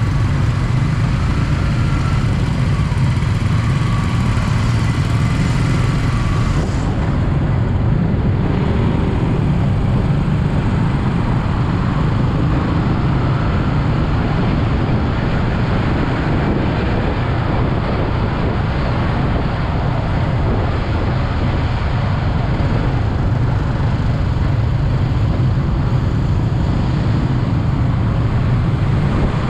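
Yamaha MT-15's single-cylinder engine running steadily while the motorcycle is ridden, under a constant rush of road and wind noise on the rider's microphone. A high hiss fades about seven seconds in.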